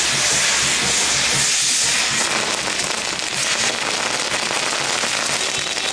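Fireworks hissing steadily with a dense, rapid crackle.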